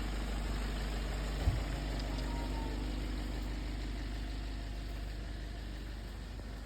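A steady low engine hum, like a motor idling, with one sharp knock about one and a half seconds in.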